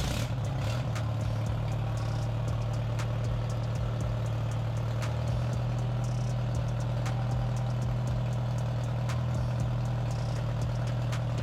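A vehicle engine idling steadily, with a strong low hum and a few faint ticks.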